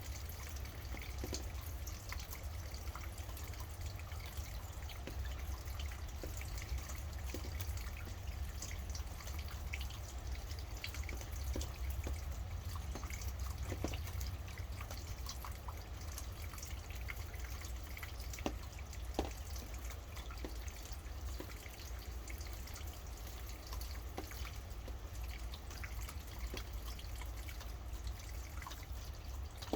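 Rain falling, with many separate drops ticking and dripping close by over a steady low rumble. A couple of sharper drops stand out a little past halfway.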